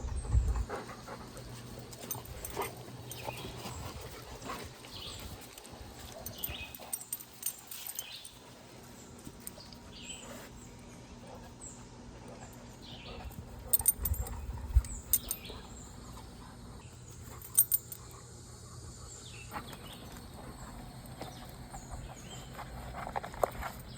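Dogs moving about and exploring, with scattered rustles, clicks and short high chirps; a louder cluster of knocks comes about 14 seconds in and another near 17 seconds.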